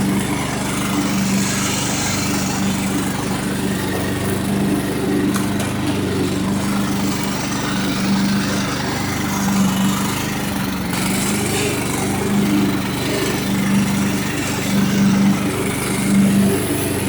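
Craftsman lawn tractor's 16.5 hp Kohler Command engine running steadily under load while mowing with the 42-inch deck. Its note swells and eases about every second or so, a pulsing the owner says it always has even with a completely clean fixed-jet carburetor.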